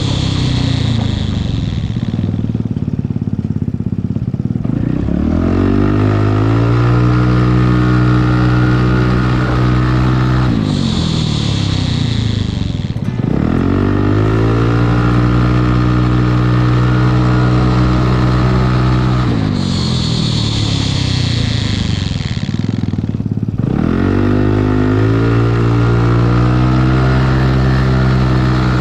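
Yamaha Cygnus X scooter's single-cylinder engine being ridden: it speeds up, holds a steady speed, then slows down, three times in a row, with a hiss during each slowdown.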